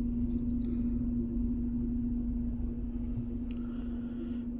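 2014 Mercedes-Benz C250 idling steadily just after a cold start, a constant hum over a low rumble.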